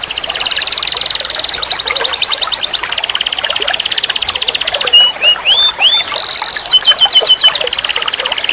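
Canary singing a continuous, high-pitched song of fast trills and rolls, broken about five seconds in by a few separate rising notes before the trills resume.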